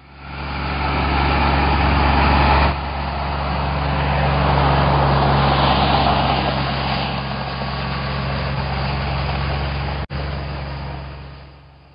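Tractor engine running steadily, fading in at the start and out near the end, with a brief dropout about ten seconds in.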